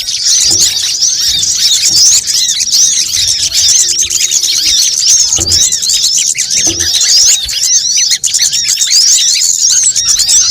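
Bird-lure recording of small birds such as sunbirds chattering in a noisy crowd: a dense, unbroken stream of rapid, high, swooping chirps overlapping one another, with a few faint low thuds under it.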